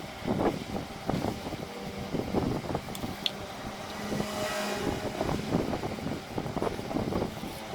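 A motor vehicle engine running, with uneven surges several times a second over a faint steady hum.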